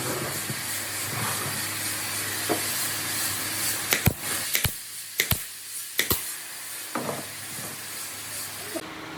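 A steady hiss, with a cluster of about six sharp knocks about four to six seconds in; the hiss cuts off suddenly near the end.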